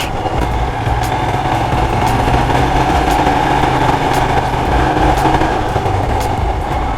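Royal Enfield Himalayan's single-cylinder engine running steadily under way, with wind and road noise.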